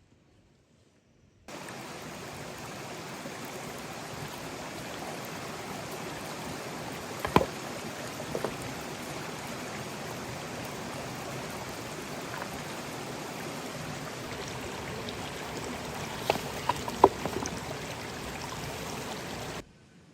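Steady rushing of running water that cuts in abruptly a second or two in and stops abruptly near the end, with a few sharp knocks over it.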